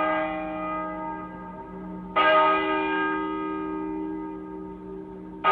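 Large temple bell struck at slow, even intervals, about once every three seconds. The previous stroke is still ringing at the start, a fresh stroke comes about two seconds in and another right at the end, and each rings on with a slow fade.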